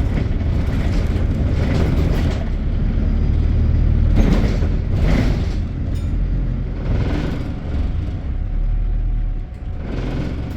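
Bus running with a steady low engine rumble, and road noise that swells and fades every second or two.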